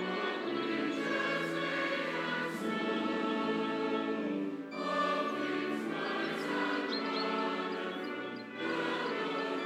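Background choral music: sustained choir voices moving from chord to chord, dipping briefly about halfway through and again near the end.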